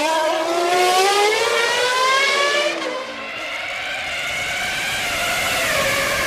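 Formula One car's V10 engine revving: the pitch climbs over the first second, drops sharply about two and a half seconds in, then holds fairly steady and dips slightly near the end.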